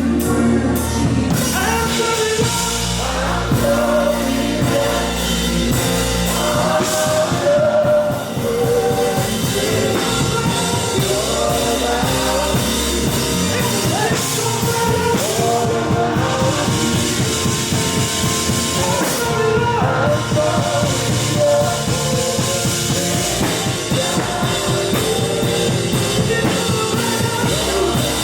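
Live worship music: a band with drum kit playing while voices sing.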